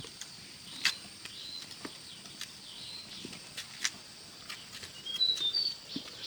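Birds chirping: short arching calls with a quick cluster of chirps near the end, and a few sharp clicks or knocks about a second and four seconds in.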